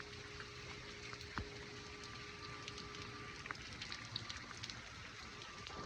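Light rain falling as it eases off, with scattered drips pattering.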